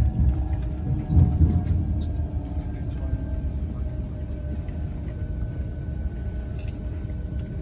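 Class 395 Javelin electric train running in and slowing, a steady low rumble under a whine that slowly falls in pitch as it brakes. There are a couple of heavier knocks near the start and about a second in.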